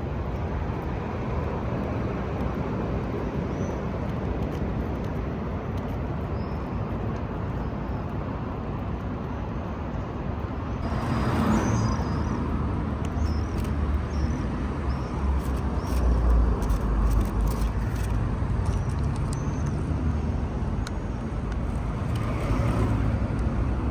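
Steady road traffic noise, with a vehicle passing about halfway through and another near the end. Faint bird chirps and a run of sharp clicks in the second half.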